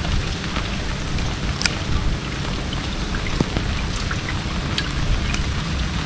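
Steady rain with a low rumble, and scattered drops ticking close to the microphone.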